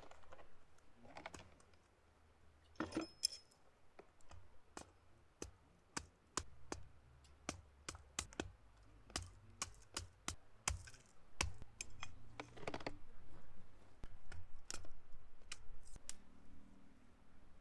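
Wood campfire crackling: irregular sharp pops and snaps, a few of them louder.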